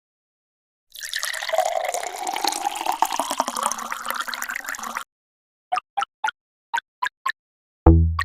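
Liquid pouring and splashing for about four seconds, then seven sharp separate clicks, then a loud deep thud with a low ringing hum near the end.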